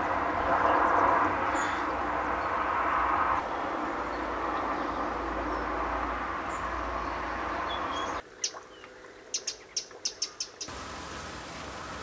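Small bird giving short, sharp, high chirps, about six in quick succession near the end. Before them there is a steady background rush with a few faint chirps.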